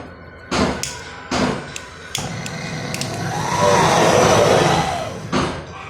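Sharp metal knocks and clanks of tools working on a fridge compressor's discharge pipe while a pin valve is being fitted: several in the first two seconds and one more near the end. In between, a steady noisy sound swells and fades over about three seconds.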